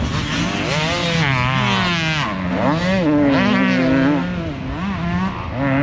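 Motocross dirt bike engine revving hard as it is ridden round the track, its pitch climbing and dropping again and again with throttle and gear changes.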